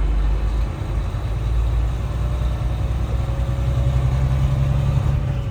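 Truck engine running steadily at low speed in slow traffic, heard from inside the cab as a constant low hum.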